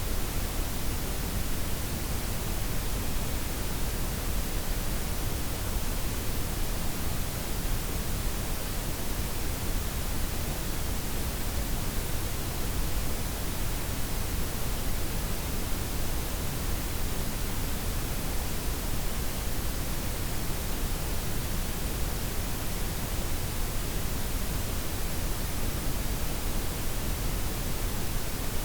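Steady synthetic noise, a layered blend of white, pink and brown noise with the highs softened, even and unchanging, with no tones or clicks.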